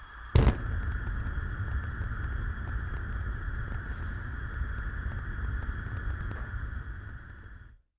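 Gas range burner being lit: one sharp igniter click about half a second in, then the flame burning with a steady low rumble over a constant faint hiss, cutting off just before the end.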